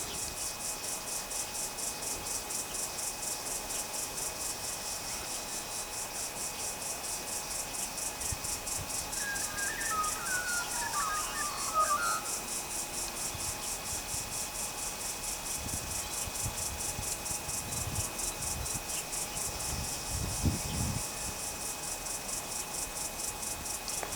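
Insects chirping in a fast, steady high-pitched pulse, about four to five beats a second. A bird calls briefly about ten seconds in, and a few low rumbles come near the end.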